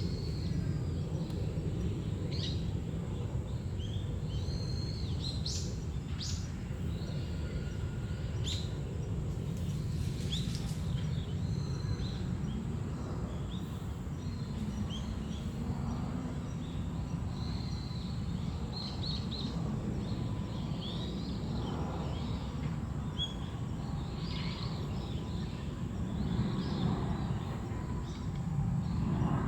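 Small birds chirping and calling in short, scattered high notes, busier in the second half, over a steady low background rumble.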